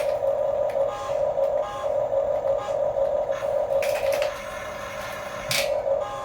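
Small electric motor and gearbox of a radio-controlled toy construction vehicle whining in uneven pulses, with scattered plastic clicks. The whine pauses for about a second near the end, and a single louder clack or scrape comes just before it resumes.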